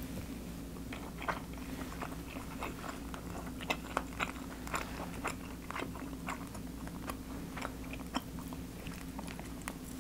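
Someone chewing a mouthful of stir-fried beef bulgogi with glass noodles and vegetables close to the microphone: irregular small clicks and crunches. A faint steady low hum runs underneath.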